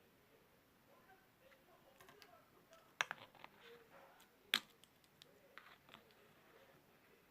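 Faint scattered clicks and taps in a quiet room, with two sharper clicks about three and four and a half seconds in.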